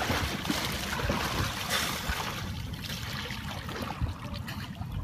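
Water splashing and sloshing as a sea kayak is rolled back upright with a Greenland stick paddle sweeping the surface, loudest in the first two seconds or so, then settling to lighter trickling.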